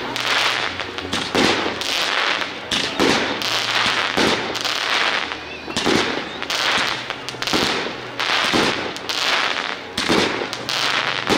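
A fireworks display going off in quick succession: a steady string of sharp bangs and crackling bursts, roughly two a second, each trailing off.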